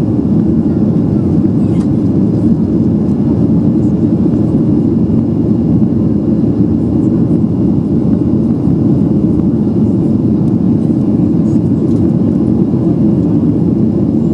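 Steady, loud cabin drone inside a Boeing 737-800 climbing out: its CFM56-7B turbofans and the rush of air past the fuselage, heard from a window seat.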